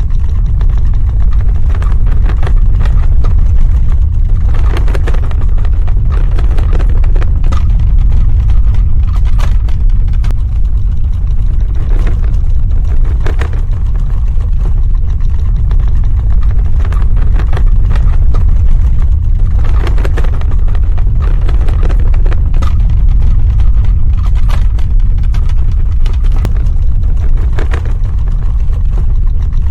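Earthquake rumble sound effect: a loud, steady, deep rumble with scattered crackles and rattles over it.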